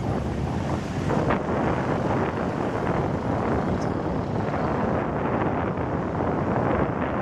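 Hong Kong double-decker tram running along its tracks, a steady rumble of the moving car with wind blowing on the microphone. A brief sharper noise sounds about a second in.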